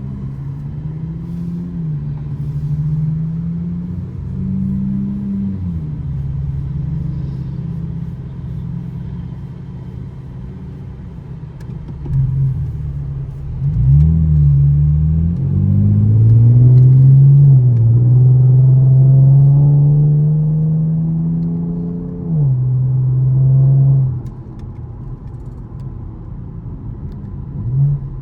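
2013 Chevrolet Camaro LS's 3.6-litre V6 engine pulling through the gears: its pitch climbs and drops at several shifts, then it revs up in one long, loud, steadily rising pull before a shift and easing off the throttle near the end.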